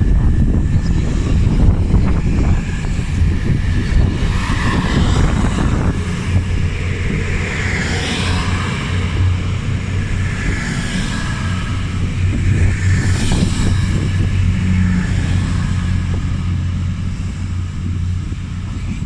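East Midlands Railway Class 222 Meridian diesel-electric multiple unit departing, its underfloor diesel engines running with a steady low drone.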